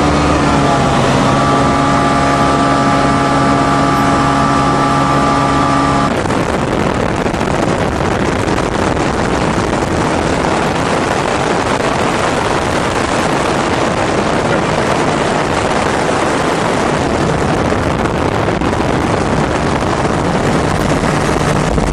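An engine running at a steady pitch for about six seconds, then giving way to a loud, even rushing noise.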